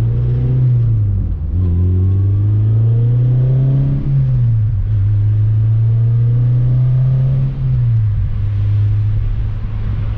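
Car engine and Full-Race aftermarket exhaust under way, the engine note rising as the car accelerates, dropping at a gear change about four seconds in, then rising again and dropping at another shift near the end. The exhaust is freshly sealed, with no leak, and the owner calls it not loud at all.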